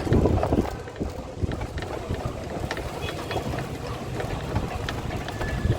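Moving tram's running noise with wind buffeting the microphone, a gusty rumble with scattered light rattles and clicks.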